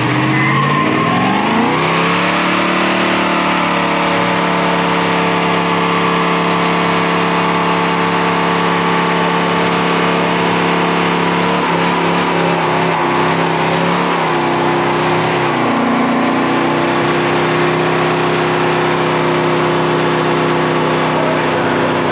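Car engine accelerating, its pitch rising over the first two seconds, then running steady at speed. The pitch wavers in the middle and settles a little lower about fifteen seconds in.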